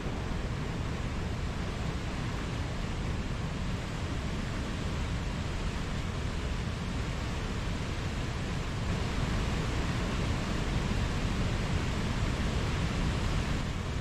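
Mountain stream rushing steadily over rocks, a little louder and brighter for the last few seconds.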